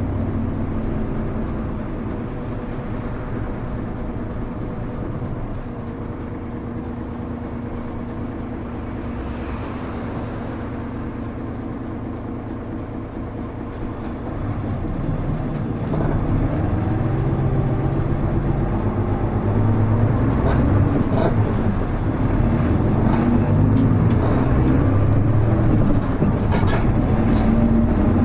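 Cabin sound of a Hino Rainbow HR city bus under way. Its diesel engine runs quietly for the first half, then from about fifteen seconds in grows louder with shifting pitch as the bus accelerates.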